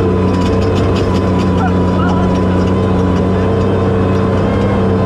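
Toyota Tacoma prerunner's engine running hard at a steady speed on sand, its pitch holding level, with scattered light rattles.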